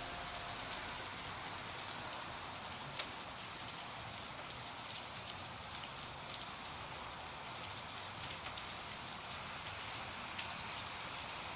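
Steady hiss with many faint scattered ticks, rain-like in character, and one sharper click about three seconds in.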